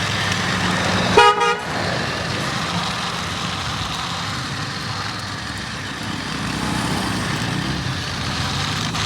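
A short horn toot about a second in, over a steady motor hum and outdoor noise.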